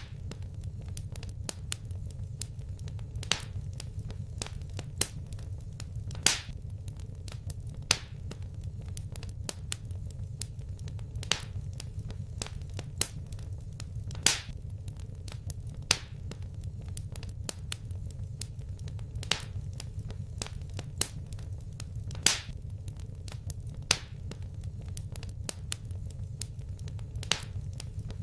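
Wood fire crackling: a steady low rumble of flames with sharp pops every second or two, a few of them louder than the rest.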